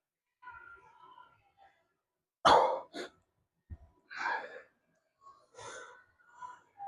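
A man's forceful breaths: a string of short exhales and sighs, the loudest a sharp pair like a cough about a third of the way in, with a short click just after.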